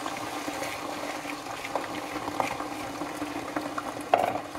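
Thinly sliced potatoes and onion cooking gently in oil in a frying pan: a steady bubbling crackle with scattered small pops. A single louder knock comes about four seconds in.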